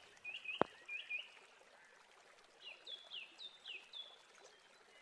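Small birds chirping in the background: short paired chirps in the first second or so, then a run of about five sharper down-sliding notes around three to four seconds in. A single sharp click about half a second in.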